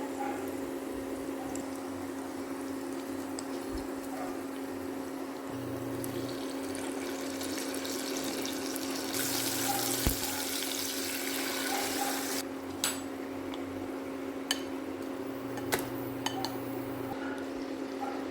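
Water running from a kitchen tap for about three seconds, over a steady low hum. Then come a few light clicks and knocks.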